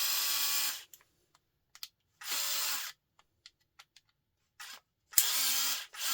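A small cordless power driver runs in short bursts of under a second, four times, backing out screws. There are small clicks of handling between the bursts.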